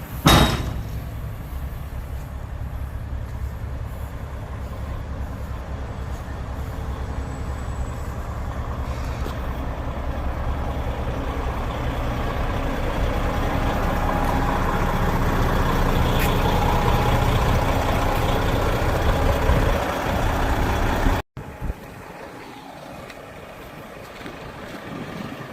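Heavy diesel semi truck running under way, its engine sound slowly growing louder for about twenty seconds after a short loud burst at the very start. After a cut near the end, a quieter steady engine sound follows.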